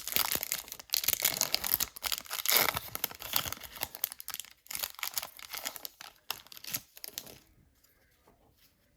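Wrapper of a 2022 Bowman baseball card pack being torn open and crinkled, dense crackling that stops about seven seconds in, leaving only faint handling.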